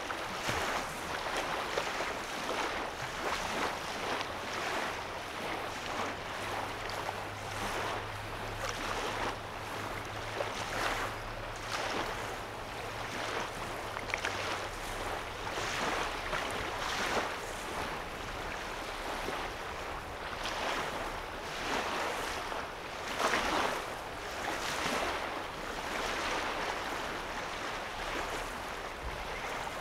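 Small waves lapping at a calm lake's shoreline, washing in softly every second or two. A low steady hum sounds under the water for several seconds in the first half.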